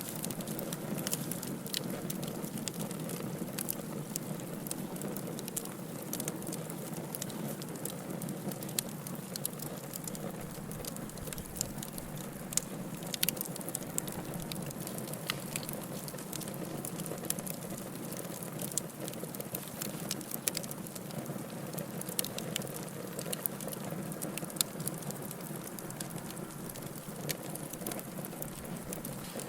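Wood fire burning in a fireplace: a steady low hiss with frequent sharp crackles and pops at irregular moments.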